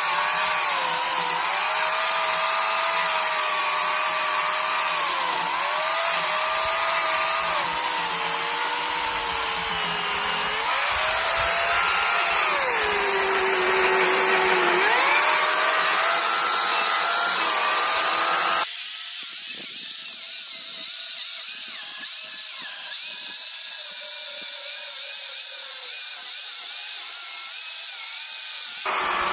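Chainsaw cutting logs into firewood, its pitch dipping and recovering again and again as the chain bites into the wood. About two-thirds in, the sound drops suddenly to a quieter run of the same saw.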